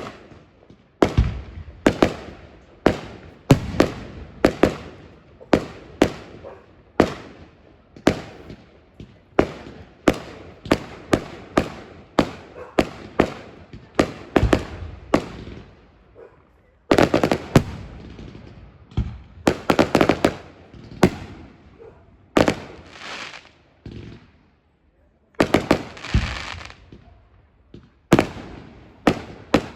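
Fireworks display: a steady run of sharp bangs from bursting shells, one to two a second, each trailing off in a short crackle or echo, with quicker flurries of bursts in the second half.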